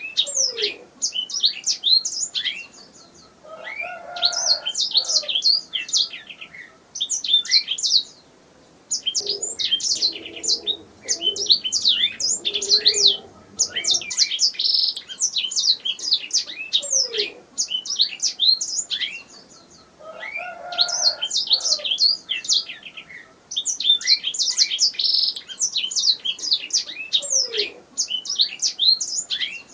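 Domestic canary singing long phrases of rapid high trills and chirps, with short pauses between the phrases.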